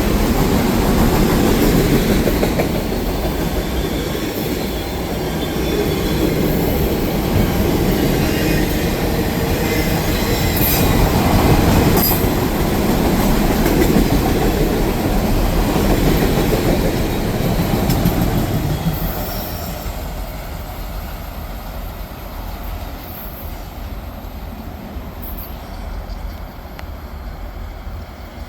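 Train passing on the track: steady rolling rumble of wheels on rail, with a few brief high wheel squeals about ten seconds in. The sound eases off and fades from about two-thirds of the way through.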